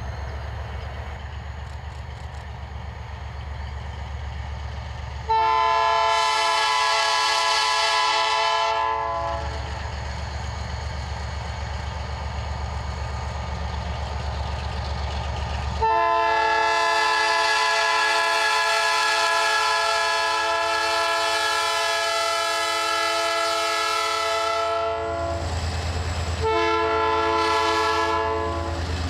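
Diesel locomotive sounding its air horn in three blasts: a long one, a longer held one and a short one near the end. The locomotive's engine rumbles low underneath.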